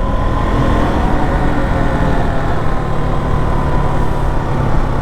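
KTM motorcycle engine running at a steady, unchanging cruise while riding, with a low hum and some steady tones through it.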